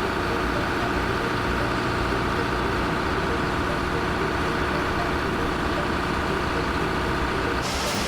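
A heavy diesel engine running steadily at a constant note, with a low rumble under it. About half a second before the end a brighter hiss joins in.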